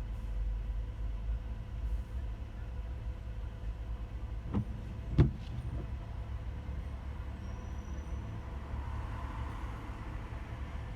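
Steady low rumble of a car's engine and road noise heard from inside the cabin in slow traffic. About halfway through come two sharp knocks roughly half a second apart, the second one the loudest.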